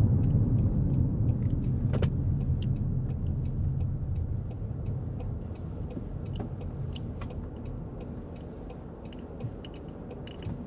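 Road and drivetrain noise inside the cabin of a 2024 Toyota Corolla Cross, a low rumble that fades steadily as the car slows for a stop sign, with faint scattered ticks over it.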